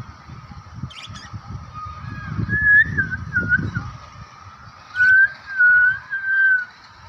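Whistling: a clear, wavering whistled phrase, then three loud sliding whistled notes near the end, with a couple of brief high chirps in between.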